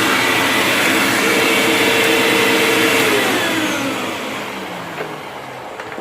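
Hoover WindTunnel upright vacuum cleaner running steadily, then switched off about three seconds in, its motor winding down with a falling pitch and fading. A small click comes near the end.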